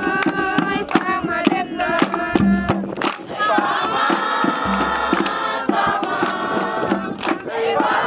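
Group of voices singing together, with sharp rhythmic beats throughout.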